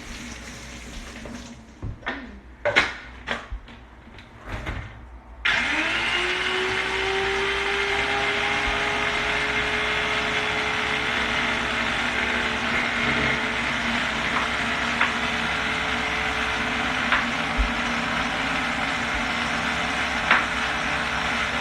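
A few knocks and clicks, then about five seconds in a food processor motor starts, its whine rising quickly to speed, and runs steadily, blending egg yolks, Dijon mustard and lemon juice into a mayonnaise base.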